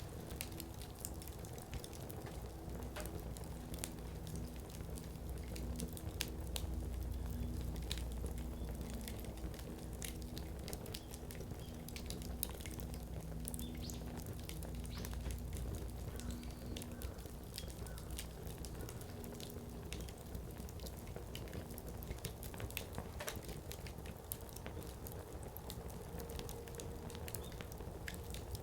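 Firewood crackling and popping as it burns in an open fire pan, with many sharp little pops over a low, steady rumble.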